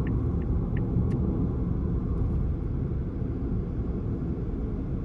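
Steady low rumble of a car driving, road and engine noise. A few faint short chirps come in the first second.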